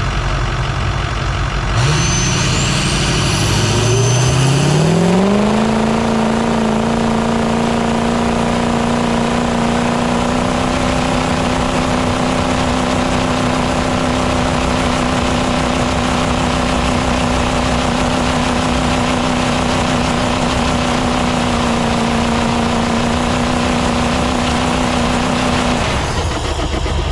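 Ford 6.0 Powerstroke V8 turbo-diesel pulling under load. It climbs in revs over a few seconds with a high rising whistle, then holds steady at high revs for about twenty seconds before dropping off near the end.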